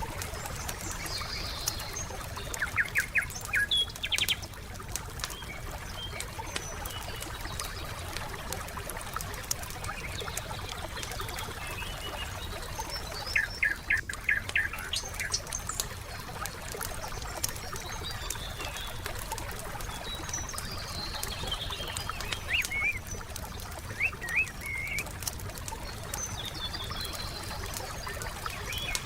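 Wood fire crackling with scattered sharp pops over a steady hiss, while small birds chirp in short runs of quick notes three times.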